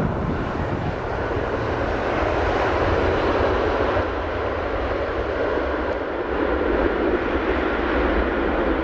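Jet engines of a Lion Air airliner passing overhead: a steady rushing drone with a deep rumble beneath, swelling slightly twice.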